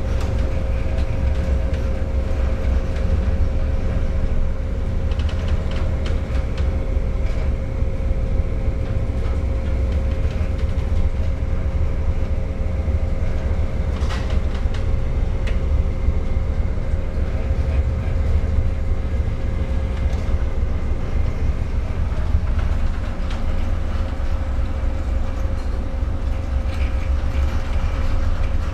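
Steady low rumble of a reefer ship under way, its engine and hull vibration heard aboard, with a steady hum over it.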